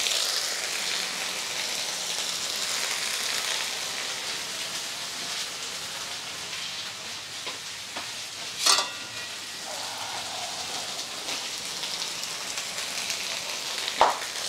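Marinated chicken pieces sizzling and frying in oil in a cast-iron skillet, a steady hiss. One brief louder sound comes about two-thirds of the way through, and another near the end.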